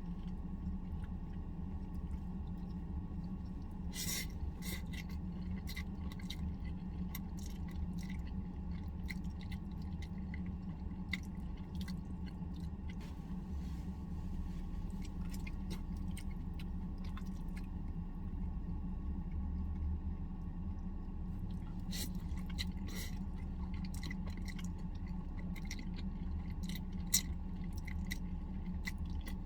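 Close-up chewing and mouth sounds of a person eating pasta, with many small sharp clicks, busiest about four seconds in and again near the end, over a steady low hum.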